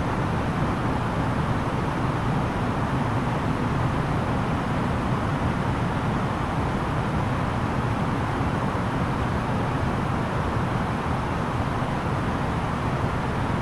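Steady cabin noise inside an Airbus A330-900neo airliner in flight: an even rush of airflow with the low drone of its Rolls-Royce Trent 7000 engines, unchanging throughout.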